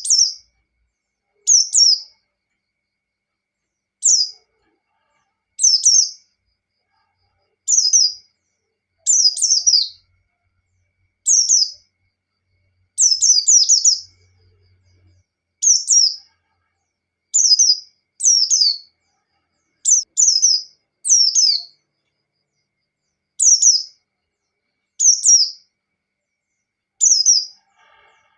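White-eye (pleci) singing its 'ngalas' song: short, high, downward-sweeping chirping phrases repeated every second or two with brief pauses, a few phrases running longer. It is played as a bait recording to get other pleci singing.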